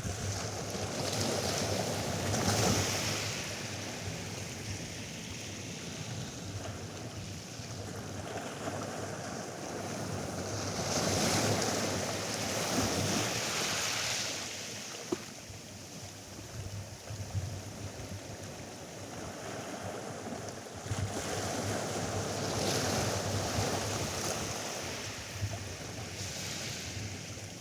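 Atlantic surf breaking and washing up a sandy beach, swelling three times about ten seconds apart, with wind on the microphone.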